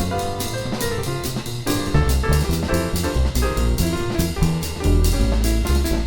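Jazz piano trio playing a tune: acoustic piano over double bass notes, with drums keeping time in steady cymbal strokes.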